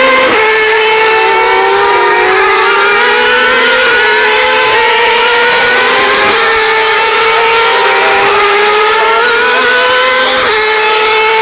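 Superleague Formula race car engine running at high revs, loud throughout. The pitch sags and then steps up or down several times as the car changes gear.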